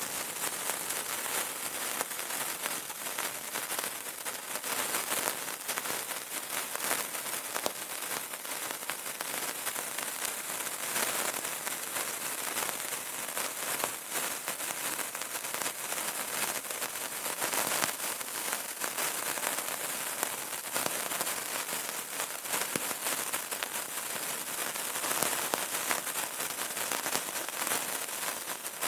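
Burning candle crackling: a steady, dense run of small pops and crackles over a hiss.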